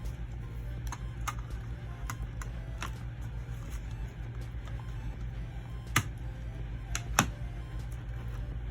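Scattered sharp plastic clicks and taps from handling CD jewel cases and their contents, about seven in all, the loudest two about six and seven seconds in, over a steady low hum.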